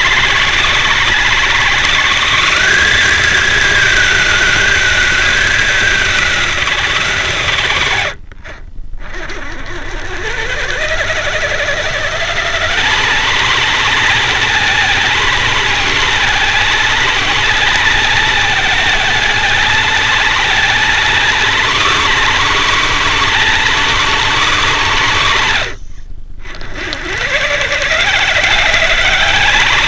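Kyosho Blizzard SR radio-controlled snowcat's brushed electric motor and drivetrain whining as it runs, the pitch shifting with speed. Twice it drops away briefly and then winds back up with a rising whine.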